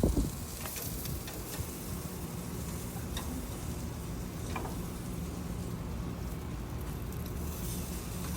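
Steady sizzling hiss from a campfire grill, with a few faint crackles scattered through it and a single knock right at the start.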